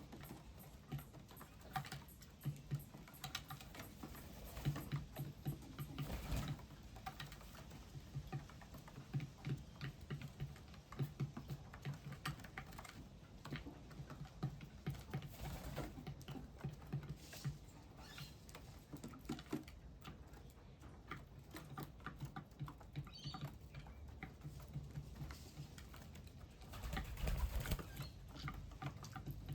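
Small birds pecking and hopping about, making irregular light taps and pattering throughout, a little busier near the end.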